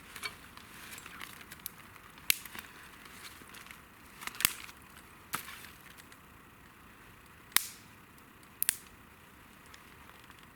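Wood campfire crackling, with about half a dozen sharp, irregular pops over a faint hiss.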